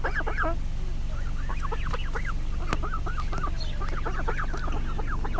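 A family of waterfowl, an adult with her young, calling: many short, quick calls in clusters, over a steady low rumble.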